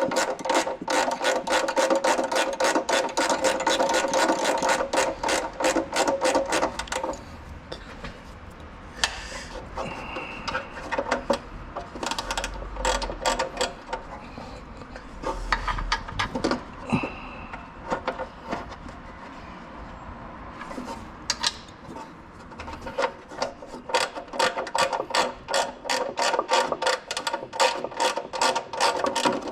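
Socket ratchet wrench clicking in fast, even runs as bolts are turned, first for several seconds and again near the end. In between come quieter scrapes and knocks of tools and parts being handled.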